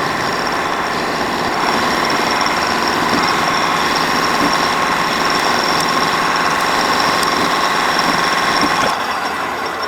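Metal lathe running while a small punch is turned down to a narrower size. A steady whine runs under the cutting noise, which grows a little louder after about a second and a half and eases off near the end.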